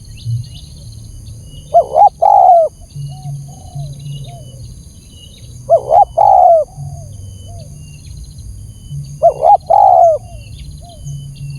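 Spotted dove (tekukur) cooing its lure call three times, about every three and a half seconds: each phrase is two short notes and a longer, falling coo. Faint high chirps from other small birds sound between the phrases.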